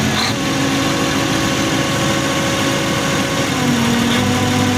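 Cummins 903 V8 diesel engine running steadily in a tractor. Its speed rises a little just after the start and eases back slightly about three and a half seconds in.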